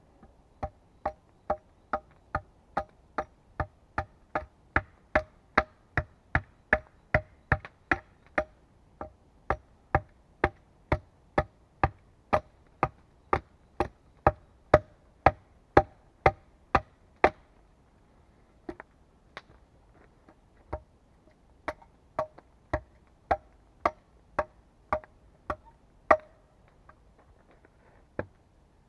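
Repeated blows of a hand tool striking wood, steady at about two a second, each knock with a short ring. After a pause the blows come again, more slowly and unevenly.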